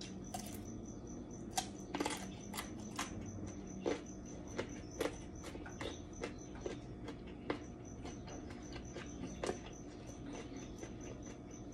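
Close-up chewing of raw carrot sticks: crisp crunches at an irregular pace, about one or two a second.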